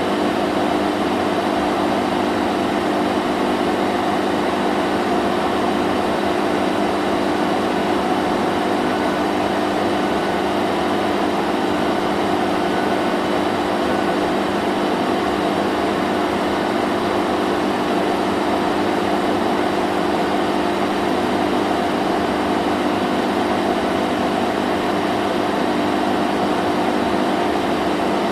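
Vacuum cleaner running steadily: an even motor hum over a constant rush of air.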